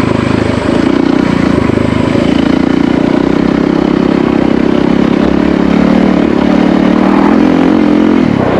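Yamaha WR450F single-cylinder four-stroke dirt bike engine running steadily under way, easing off slightly near the end.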